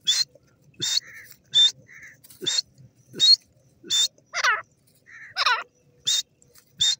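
Grey francolin calling: a run of short, harsh notes about every three-quarters of a second, with a couple of longer notes sweeping down in pitch around the middle.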